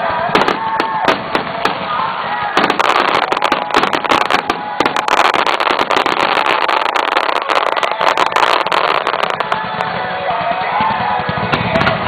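Fireworks crackling and popping in a dense rapid run of bangs, thickest from about two and a half seconds in until near the end, with music playing underneath.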